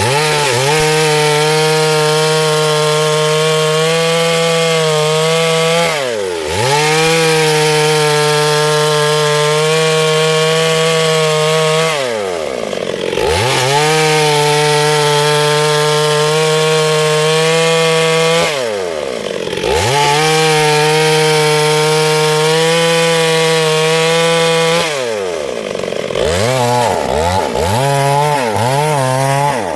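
Chainsaw cutting wood at full throttle in long steady pulls. Roughly every six seconds the revs drop away and climb back. Near the end the revs rise and fall quickly several times.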